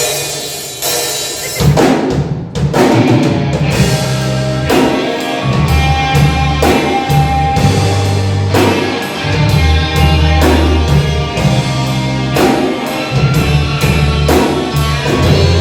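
Live rock band playing an instrumental passage. A drum kit beats steadily with bass drum and snare over a bass line, and other instruments hold notes. It cuts in abruptly out of dead silence.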